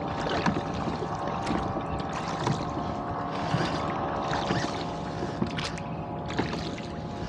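Water slapping and splashing against a rowboat's hull in a steep wind-driven chop, about once a second, over a steady rush of wind and water.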